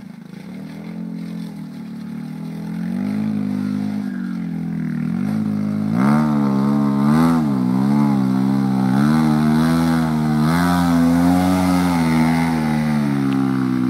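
Polaris Ranger Crew side-by-side's engine through a custom-made dual Looney Tuned exhaust, revving with its pitch rising and falling. It gets louder about six seconds in and is revved up and down repeatedly from there.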